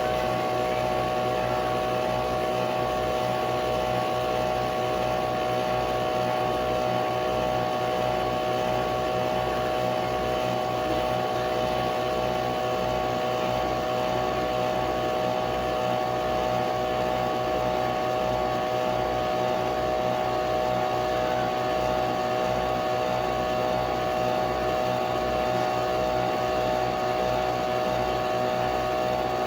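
Nespresso Vertuo Pop+ capsule coffee machine brewing: a steady mechanical whine made of several constant tones, over a low uneven pulsing.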